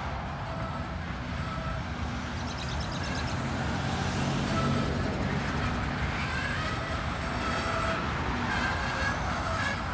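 Freight train rolling slowly along the track, a steady rumble with faint thin squealing tones from the wheels. A minivan drives past close by about four seconds in, adding a brief swell of tyre noise.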